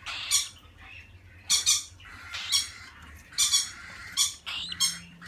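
Cockatiels squawking: a string of short, harsh calls, often in pairs, coming every half second to a second.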